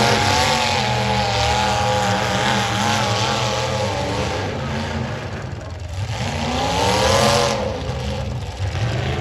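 Demolition derby car engines running and revving hard, their pitch wavering up and down, with one more rev rising and falling about seven seconds in.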